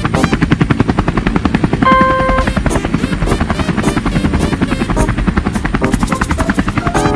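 Helicopter rotor sound, a rapid, even chopping that runs steadily. A short held beep or horn-like tone sounds briefly about two seconds in.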